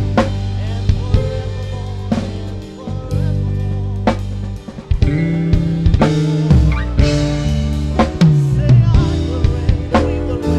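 Worship band playing: a drum kit with kick, snare and cymbal hits keeping time over sustained bass notes and held chords. A sliding bass note falls a little past the middle.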